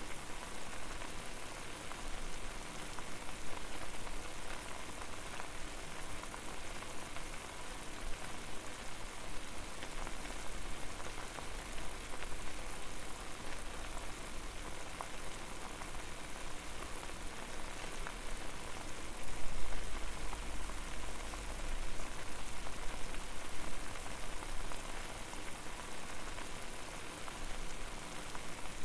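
Water boiling hard over a fire: a dense, steady bubbling hiss, with a low rumble that swells louder twice, about a third of the way in and again about two-thirds through.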